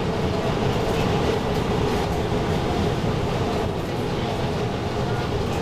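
Steady running noise of an REM automated electric light-metro train heard from inside the car: a low rumble with a steady hum.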